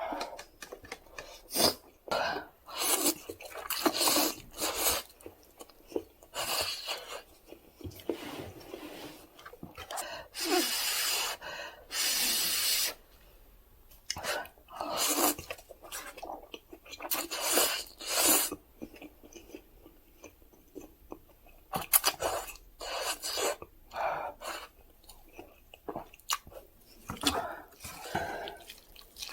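Close-miked eating sounds of instant cup noodles: irregular slurps and chewing in short bursts, with two longer stretches of sound about ten and twelve seconds in.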